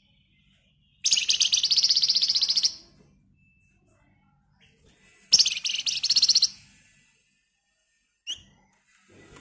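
Flamboyan (Javan fulvetta) songbird singing two fast, dense rattling trills, each a second or two long and about four seconds apart, then a short single note near the end.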